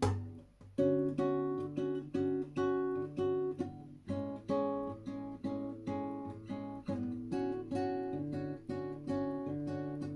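Acoustic guitar playing an instrumental passage between sung lines. A chord is struck and quickly damped, then a steady rhythmic pattern of strummed and plucked chords starts a little under a second in.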